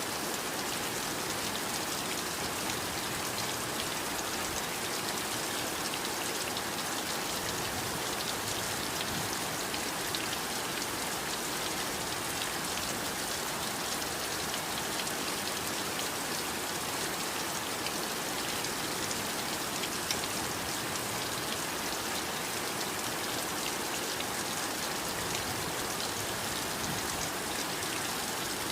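Heavy rain falling steadily, with a dense patter of drops striking a surface.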